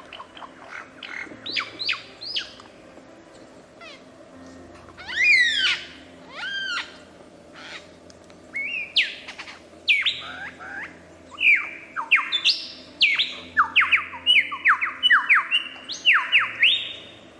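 Birds calling: a run of short, high whistled calls, each dropping steeply in pitch, sparse at first and coming quickly one after another in the second half.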